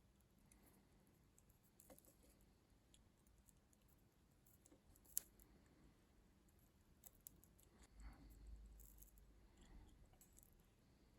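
Near silence with scattered faint clicks and light handling noise, one sharper click about five seconds in and a soft low rumble near the end.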